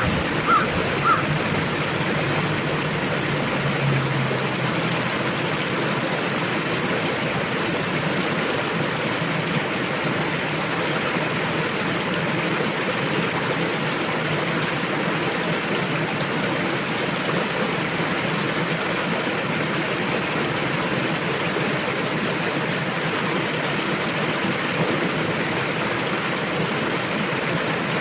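River water rushing steadily over a forest riverbed. A few short bird chirps sound in the first second.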